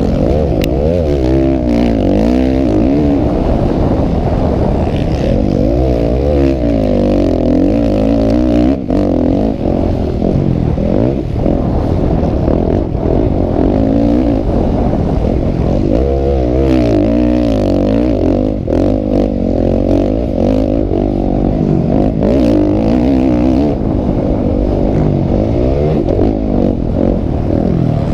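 Several motocross motorcycle engines racing at once, their overlapping pitches rising and falling continually as the riders rev and shift.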